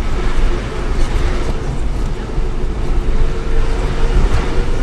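Shuttle bus running on a steep mountain road, heard from inside the cabin: a steady, loud engine and road rumble with a steady whine over it.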